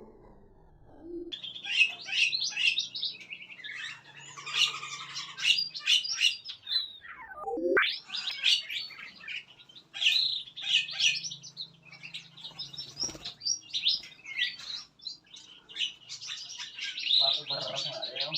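Many small cage birds in a mixed aviary chirping and calling over one another in quick, high, overlapping notes. About halfway through, one sweeping call falls steeply and then rises again.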